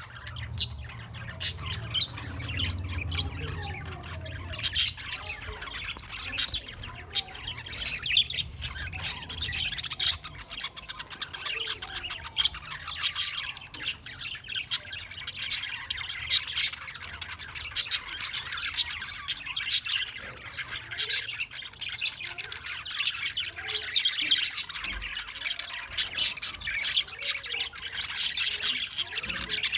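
A flock of small caged parrots chirping and squawking together: a continuous chatter of many overlapping calls, broken by frequent sharp, louder squawks.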